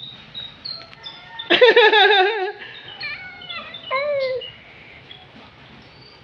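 A loud, high, wavering vocal cry lasting about a second, followed by two shorter falling cries, over faint short high chirps.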